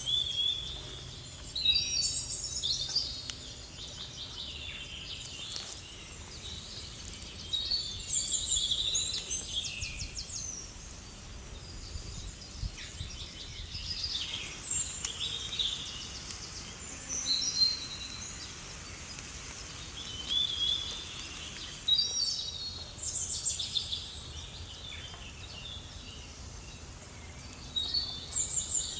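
Wild songbirds singing outdoors in repeated clusters of high chirps and trills, over a steady low background noise.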